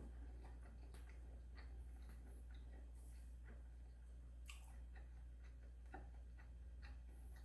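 Faint eating sounds: scattered small mouth clicks and soft chewing, over a steady low hum.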